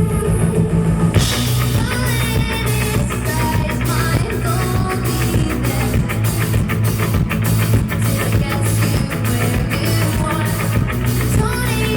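Live band playing an instrumental passage of a rock-pop song, with bass, guitar and a drum kit; the drums and cymbals come in hard about a second in and keep a steady driving beat.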